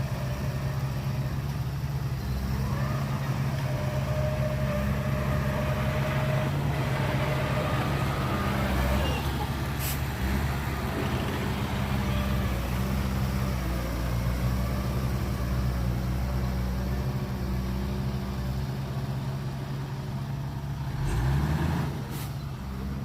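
Heavy diesel engine of earthmoving machinery running steadily with a low drone, with a brief rise in pitch near the end.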